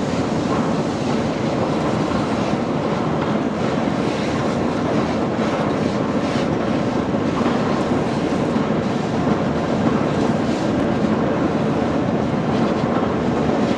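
Steady, loud mechanical noise with no clear rhythm or tone, like heavy machinery running.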